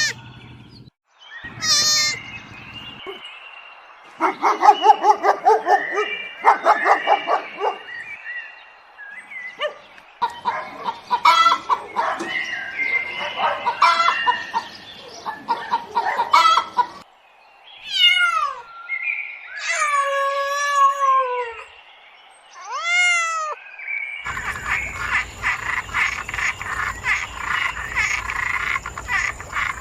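A run of different animal calls, mostly frogs croaking in rapid pulsed series. Partway through come several falling calls. Near the end a steady chorus with regular clicks takes over.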